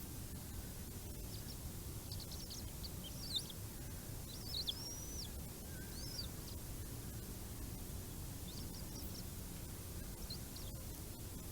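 Scattered high-pitched bird chirps, with one longer arched call about four and a half seconds in, over a steady low rumble.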